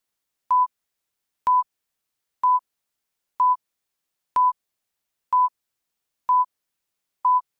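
Electronic timer beeps counting down: short, mid-pitched single-tone beeps about once a second, eight in a row, each the same.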